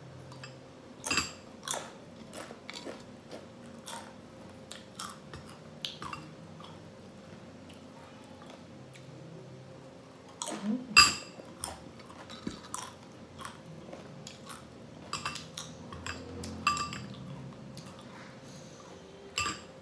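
Close-miked crunching and chewing of nacho tortilla chips, a run of sharp, irregular crunches, loudest about halfway through.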